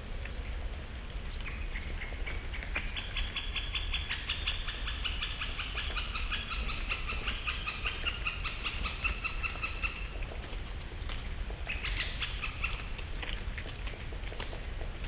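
A bird calls in a long, rapid trill of repeated notes lasting about eight seconds, then gives a short burst of the same notes near the end. Faint scattered ticks of falling leaves and a low rumble run underneath.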